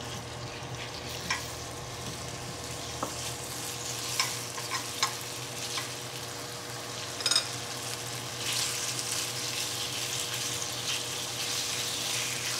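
Raw chicken strips sizzling in hot oil in a ceramic nonstick pan as they are stir-fried, first with chopsticks and then with a wooden spatula, with a few light taps of the utensils against the pan. The sizzle grows louder about two-thirds of the way in.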